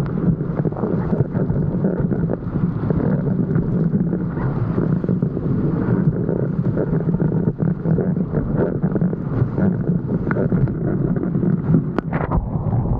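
Strong wind buffeting a POV camera's microphone while windsurfing, with water rushing and spraying off the board. A single sharp knock near the end.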